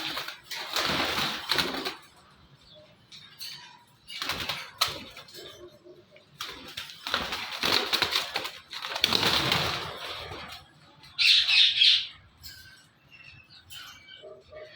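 Indian ringneck parakeets flapping their wings in four rough bursts, then a short, loud high call about eleven seconds in.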